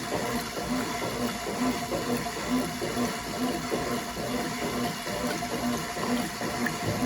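1996 Brastemp Clean 5 kg top-loading washing machine running, water sloshing in a regular rhythm about once a second over a steady motor hum.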